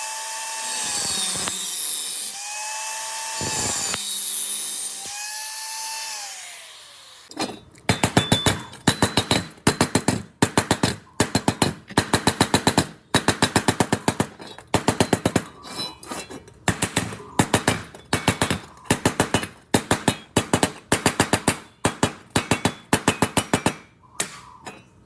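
A power tool whining with a hiss, its pitch sagging and recovering three times as it bears into metal. After about seven seconds it changes to short bursts of rapid hammering impacts from a power tool, about two bursts a second, until near the end.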